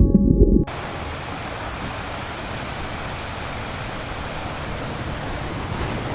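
Music with a deep rumble and held tones cuts off abruptly about half a second in, giving way to a steady, even rushing noise of natural ambience.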